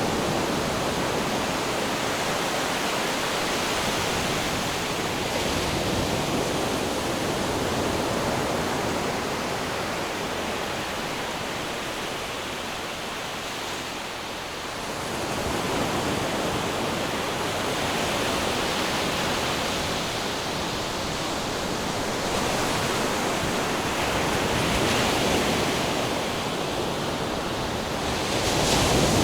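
Ocean waves breaking and washing on the shore, a steady surf wash that swells and eases slowly, dipping about halfway through and rising again near the end.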